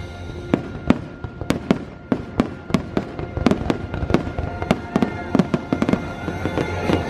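Fireworks bursting in quick, irregular succession, several sharp cracks and bangs a second, over a music soundtrack.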